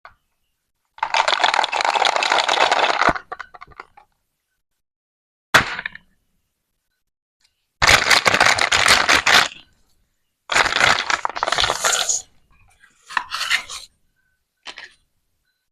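Plastic toy vegetables being cut apart with a toy knife: three scraping, ripping strokes of about two seconds each, with shorter sharp cracks between them.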